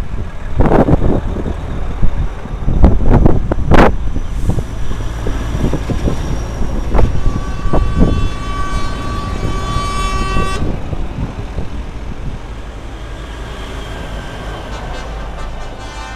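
Trucks in a convoy driving past with a steady low engine rumble and several loud thumps in the first few seconds. A truck horn sounds for about three seconds in the middle and cuts off suddenly, and another horn starts near the end.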